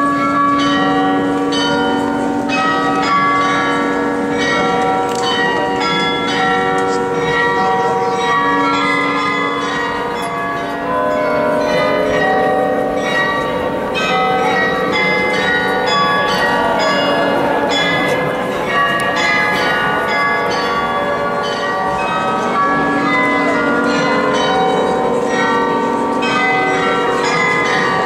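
Several large church bells ringing together, their strokes overlapping in a continuous peal.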